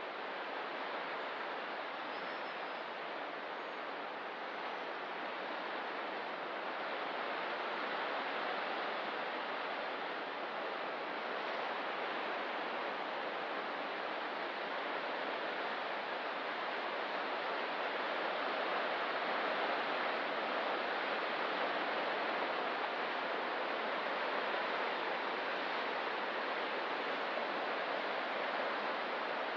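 Ocean surf on a rocky coast: a steady, unbroken wash of breaking waves with no single crash standing out, slowly growing a little louder.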